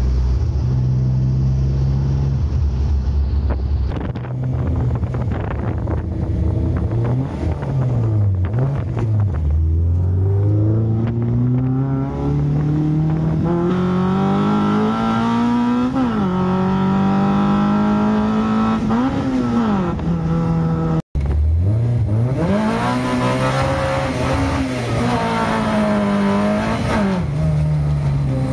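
A car engine revving hard, its pitch climbing steadily for several seconds and then falling and rising again in repeated revs. The sound drops out for an instant about two-thirds of the way through.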